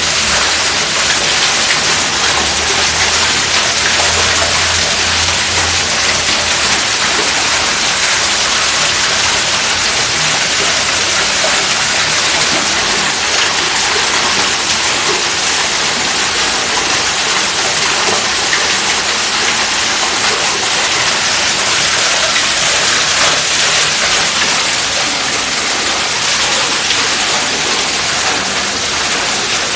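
Heavy rain falling steadily, a loud even hiss of rainfall.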